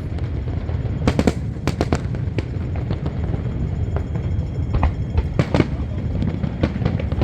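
Aerial fireworks bursting: a run of sharp bangs, several in quick clusters, over a continuous low rumble.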